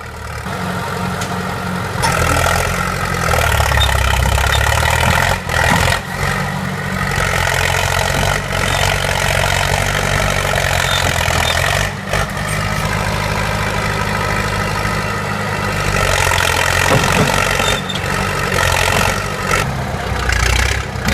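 A heavy vehicle's engine running steadily, its sound shifting abruptly a few times.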